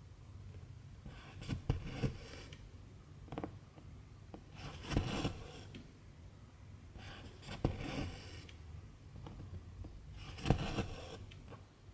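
Cross-stitch needle and silk thread being pulled through 11-count fabric: a rasping draw of thread about every two to three seconds, five in all, each starting with a light tick as the needle passes through.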